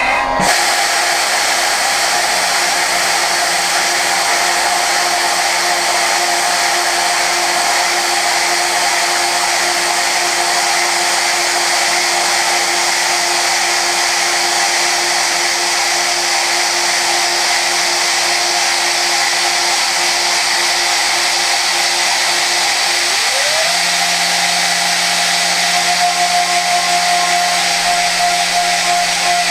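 Okuma GENOS M560V vertical machining centre high-speed milling prehardened 4140 steel with a Sandvik Coromant cutter: a steady cutting whine over a loud hiss. About three-quarters of the way through, the pitch glides up and holds at a higher steady tone.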